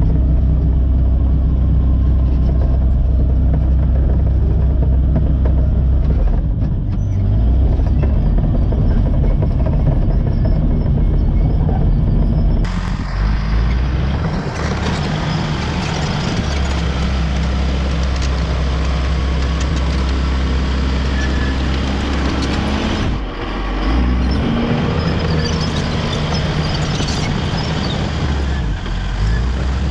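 Caterpillar D5 wide-track bulldozer's diesel engine running steadily. About halfway through the sound turns harsher and fuller in the upper range, and it dips briefly near the end.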